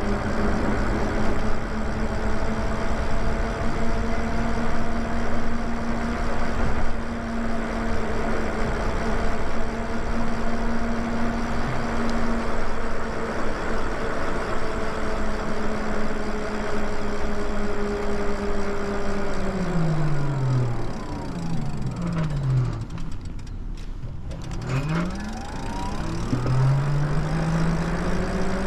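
A vehicle's motor whine holding a steady pitch over wind and road noise. About twenty seconds in it falls in pitch, as if slowing, and near the end it rises again as it speeds up.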